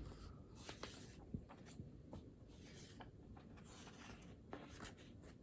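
Faint scratching of writing on paper, in short irregular strokes with a few light taps.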